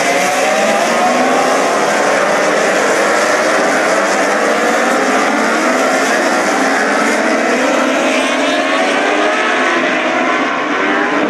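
A pack of MotoGP racing motorcycles passing through the corners, many engines running at once, their pitches overlapping and mostly rising as the bikes accelerate.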